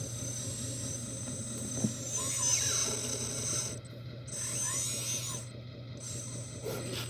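Heavy earthmoving machine's diesel engine running with a steady low hum, while high-pitched mechanical squeaks and whines rise and fall over it several times.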